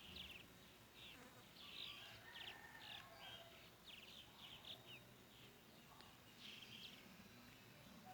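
Faint birdsong: birds singing short chirps and quick trilled notes, one after another with brief gaps.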